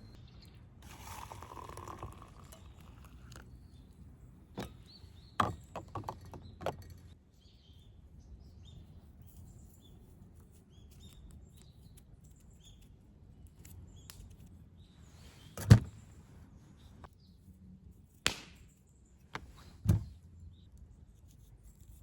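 A series of sharp knocks and taps: a cluster of lighter taps around five to seven seconds in, then three louder single knocks in the second half.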